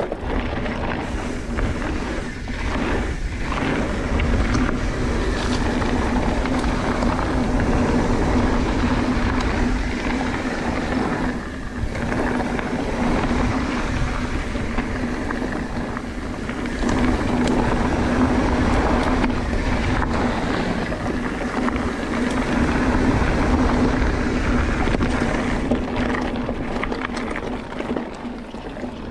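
Mountain bike descending a dirt flow trail at speed: wind rushing over the microphone and knobby tyres rolling on the dirt, with a steady low hum throughout and loudness rising and falling with the terrain.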